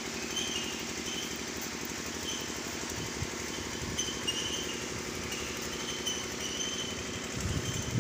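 Car engine running steadily at a constant speed, with faint high chirps repeating above it and a louder low rumble near the end.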